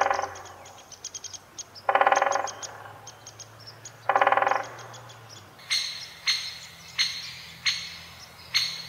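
Red-bellied woodpecker calling: three rolling, trilled churr calls about two seconds apart, followed from a little past halfway by a run of short, sharp, higher-pitched notes repeated about every two-thirds of a second.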